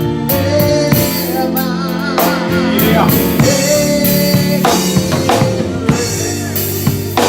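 Gospel church music with a full drum kit and sustained organ or keyboard chords, with a wavering sung line over it.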